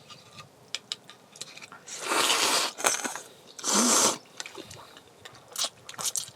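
A person slurping cold broth twice, each slurp lasting under a second, with a few small clicks between them.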